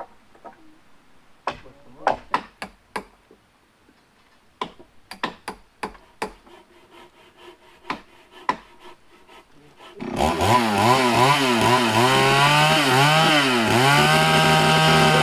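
Clusters of sharp knocks on wood, then about ten seconds in a chainsaw starts running loudly, its pitch rising and falling as the throttle is worked.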